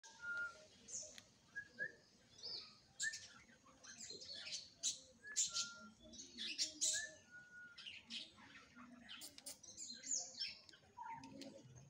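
Birds chirping: a busy run of short high chirps and brief whistled notes.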